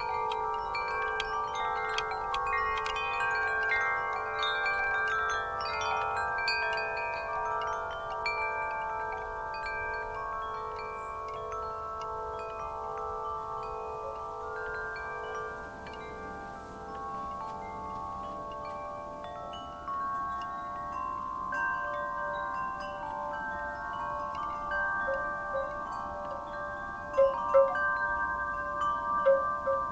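Wind chimes stirred by a breeze, many tubes struck at random and ringing on in overlapping steady tones. A few louder strikes come near the end.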